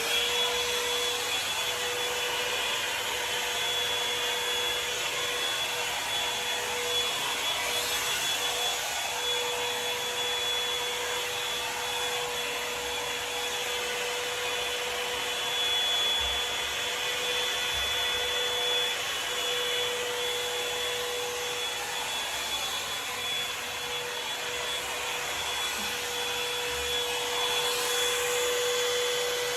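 Revlon One-Step hot air brush switching on and running steadily: a rush of blown air with a steady motor whine that rises briefly as it spins up at the start.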